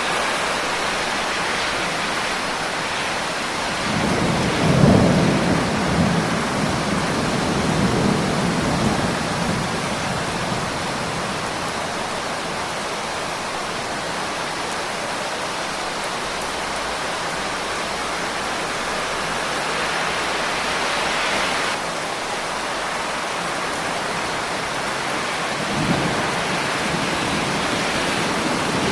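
Steady heavy rain with a roll of thunder about four seconds in that peaks and dies away over several seconds, and a shorter, fainter rumble near the end.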